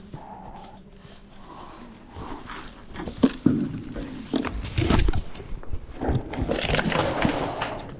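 Irregular knocks, scuffs and scrapes with clothing rustle, as a person climbs and clambers over a rough surface. One sharp knock about three seconds in is the loudest, and a longer stretch of scraping comes near the end.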